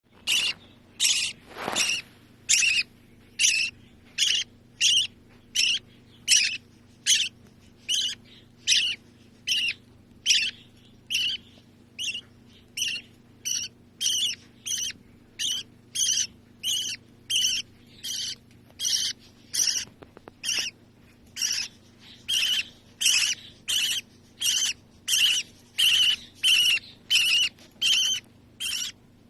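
Baby bird calling over and over with short, harsh, raspy calls, a little more than one a second.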